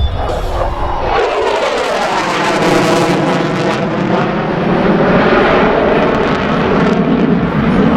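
F-16 Fighting Falcon's jet engine as the fighter passes in a tight turn. The noise comes up loud about a second in and holds, with a whooshing sweep in pitch as it goes by.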